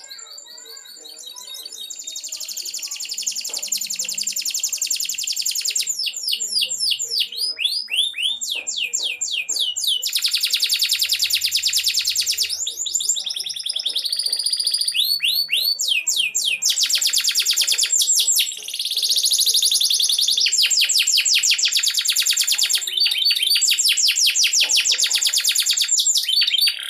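Domestic canary singing a long song of fast, high-pitched rolling trills and chirped phrases, with only brief breaks between phrases. It starts soft and grows louder over the first few seconds.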